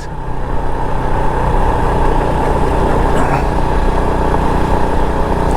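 Motorcycle engine running steadily while riding along a rough road, with road and wind noise.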